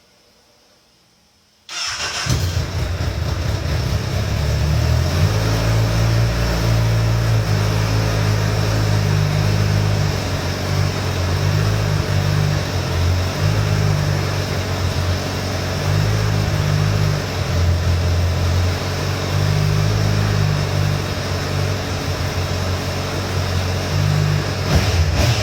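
Honda CBR1000RR SP's inline-four engine starting about two seconds in, catching at once, then idling steadily as it warms up.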